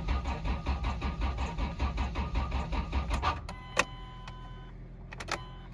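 2004 Dodge Dakota engine cranking over on the starter in a cold start, about five beats a second, without catching. The cranking stops about three and a half seconds in. After it come a couple of sharp clicks and a steady electronic tone.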